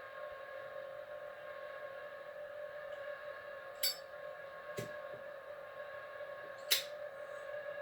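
A steady, unexplained droning hum made of several held tones, with two sharp clicks, the louder one near the end.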